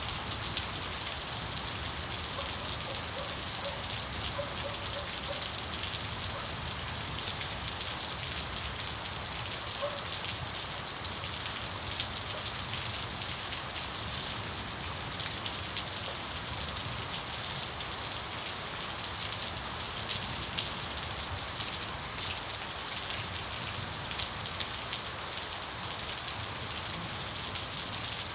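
Steady rain falling, a dense patter of fine drops with no break or change.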